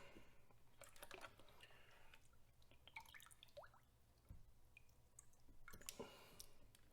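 Faint water drips and small splashes in a gold pan as the final concentrates are worked down, with a few light ticks.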